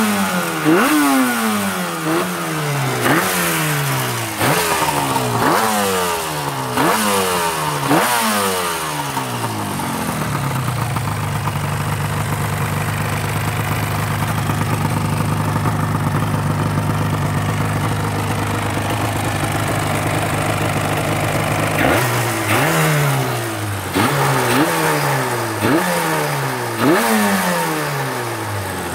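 1985 Yamaha RZ500's two-stroke V4 engine revved while the bike stands: a quick series of throttle blips, each a sharp rise in revs that falls away over about a second, then a steady idle for about twelve seconds, then another run of blips near the end.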